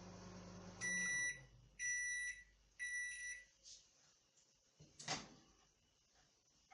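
Microwave oven's running hum cuts off a little under a second in as the cooking cycle ends, and the oven gives three evenly spaced beeps, about a second apart, to signal that it is done. A single sharp click follows a few seconds later.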